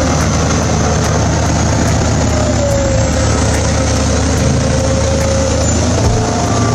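Bulldozer's diesel engine running steadily under load, with a fainter whine that wavers slightly in pitch.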